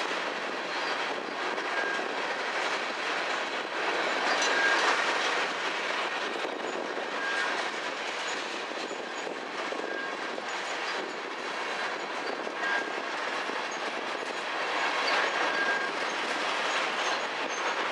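Covered hopper cars of a freight grain train rolling past, their wheels clicking over the rail joints in a steady clickety-clack. A short high-pitched wheel squeal recurs about every two to three seconds.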